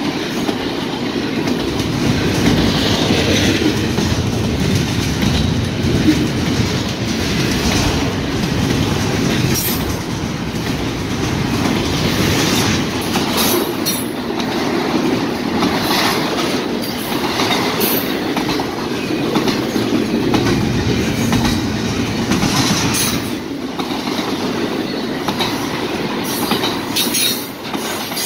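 Double-stack intermodal container well cars rolling past close by in a steady, loud rumble, with the wheels clacking over the rail joints throughout.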